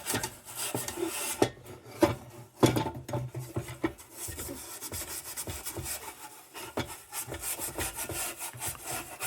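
Coarse steel wool rubbing back and forth over the metal of a vintage Dietz No. 2 Blizzard lantern in quick, uneven strokes. The hiss is rubbing down the old finish ahead of a fine steel-wool pass.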